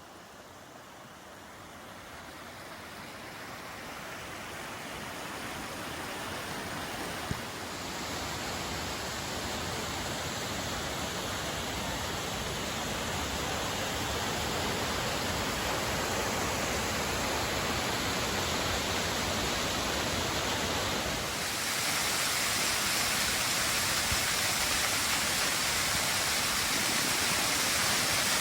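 Steady rushing of a waterfall, growing gradually louder as it is approached, then brighter and hissier from about three quarters of the way in.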